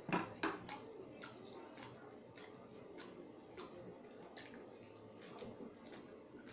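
Close-up chewing of rendang jengkol (dog-fruit beans in rendang spice paste): soft, regular wet mouth clicks a bit under twice a second, with a couple of louder smacks near the start, over a faint steady high whine.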